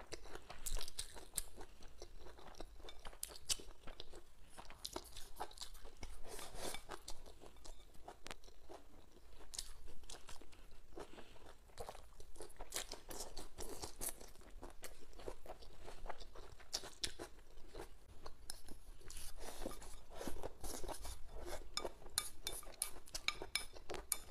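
Close-miked chewing and crunching of crisp stir-fried green chili peppers and vegetables, an irregular run of wet crackles and bites throughout.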